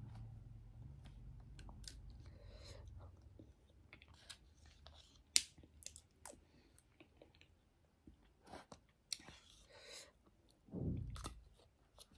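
A person chewing food close to the microphone, with irregular wet mouth clicks and smacks. There is a short, deeper mouth sound near the end.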